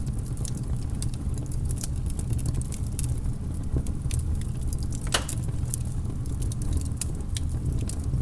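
Wood fire in a fireplace crackling: many small sharp pops over a steady low rumble of the flames, with one louder pop about five seconds in.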